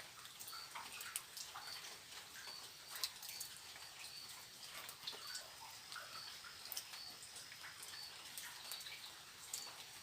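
Forest wildlife: a short, high chirp repeating about every two-thirds of a second over a steady high insect hiss, with scattered sharp clicks.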